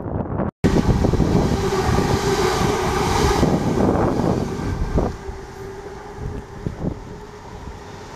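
Electric multiple unit passing close at speed: a loud rush of wheel and air noise with a steady hum underneath, which falls away about five seconds in, leaving a quieter rumble. It starts after a brief cut in the sound.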